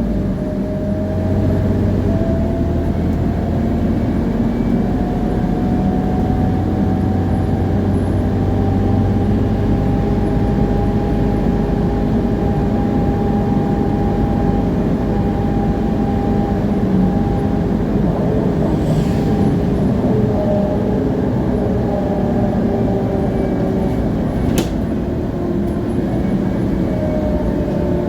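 Scania CN280UA city bus under way, its Scania DC9 engine and road noise droning low, with the rear axle's differential whining over it: a clear tone that rises slowly over the first several seconds, holds, and falls away near the end. A sharp click about three-quarters of the way through.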